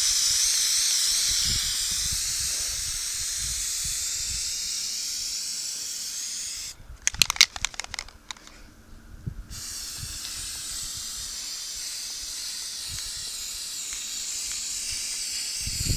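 Aerosol can of Flex Seal rubber sealant spraying in a steady hiss. About seven seconds in the spray stops for a couple of seconds, with a few sharp clicks, then starts again a little quieter.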